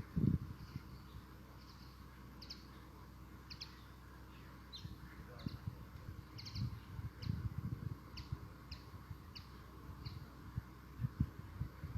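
A small bird chirping repeatedly in short high calls, every half second to a second, over low thumps and rumbles, the loudest thump just at the start.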